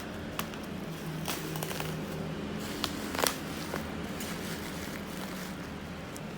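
Packaging being handled during a laptop unboxing: scattered rustles and sharp little clicks of box and wrapping, over a steady low hum.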